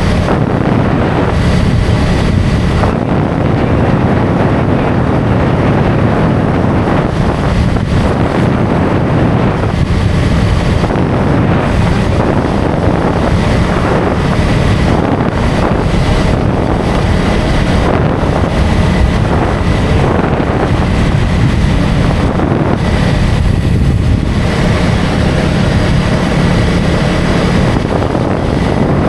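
KTM Duke 250 single-cylinder motorcycle engine running at a steady cruising speed, with wind rushing over the microphone and road noise.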